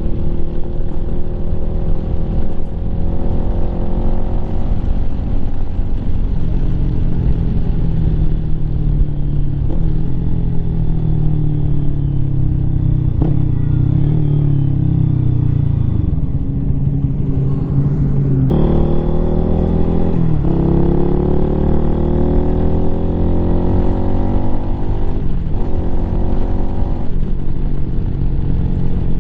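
Lifan KPM 200 motorcycle's single-cylinder engine, fitted with an aftermarket exhaust, pulling under way. Its pitch rises and falls again and again as it speeds up and shifts through the gears, with a sudden change about two-thirds of the way through.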